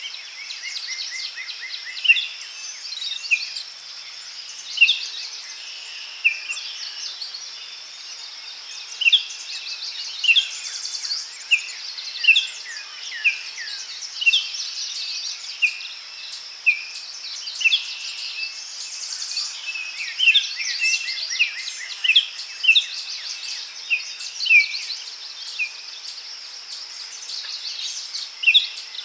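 Daytime forest ambience: several songbirds calling, with short sharp chirps coming one or two a second, over a steady high-pitched buzz.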